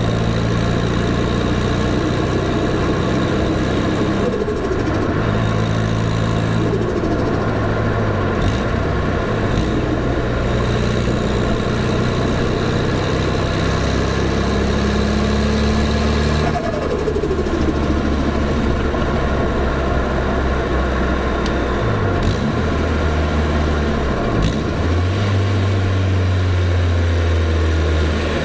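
Nissan Silvia S14a's turbocharged SR20DET four-cylinder running on the move. The engine note holds steady, then steps to a new pitch several times, with brief breaks between, as on gear changes.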